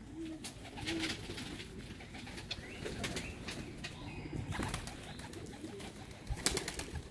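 Domestic pigeons cooing softly, mixed with scattered sharp clicks and rustles, a cluster of them near the end.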